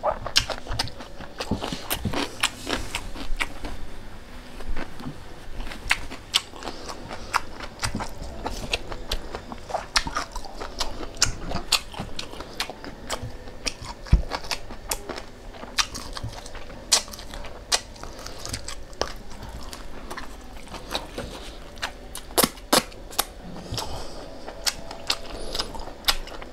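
A person eating close to the microphone: chewing, with many irregular sharp crunchy clicks and mouth smacks.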